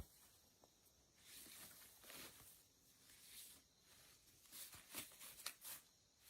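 Faint rustling and scuffing, a few soft scrapes in two short clusters.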